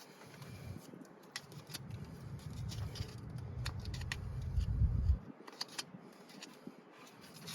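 Scattered light clicks and taps, like small metal parts or tools being handled, over a low rumble that stops about five seconds in.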